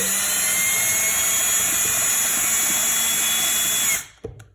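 Cordless drill/driver running steadily at speed, driving a screw into the floor outlet box, then stopping suddenly about four seconds in. A short knock follows.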